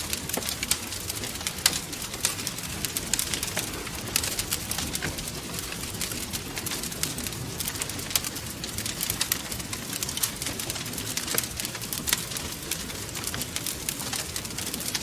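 Wood fire crackling, with dense irregular pops and snaps over a steady low rumble of flames.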